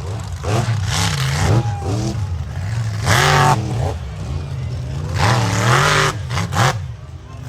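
Mega truck engine revving hard, its pitch repeatedly rising and falling, with two loud high-revving surges about three and five seconds in.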